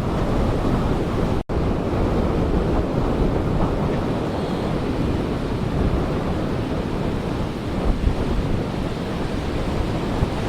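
Ocean surf breaking and washing on a beach, a steady rush, with wind buffeting the microphone. The sound drops out for an instant about a second and a half in.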